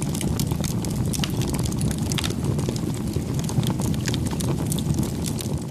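Wood campfire crackling, with many irregular sharp pops over a steady low rumble; the sound cuts off suddenly at the end.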